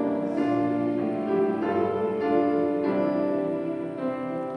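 A keyboard instrument playing slow held chords, changing about once a second, as an interlude in a hymn accompaniment.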